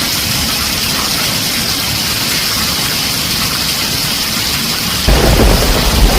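Heavy rain falling on a tin roof, a steady hiss. About five seconds in, a loud rumble of thunder breaks in underneath it.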